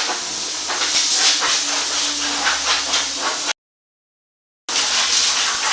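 Steady hissing noise with faint irregular clicks. About three and a half seconds in it drops out to dead silence for about a second, then resumes.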